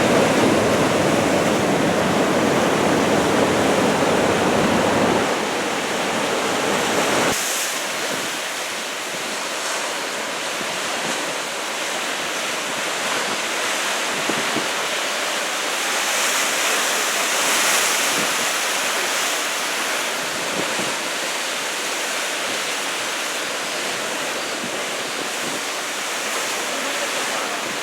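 Ocean surf breaking and washing on the shore as a steady noisy roar of waves. Low wind rumble on the microphone runs through the first several seconds and cuts off abruptly about seven seconds in.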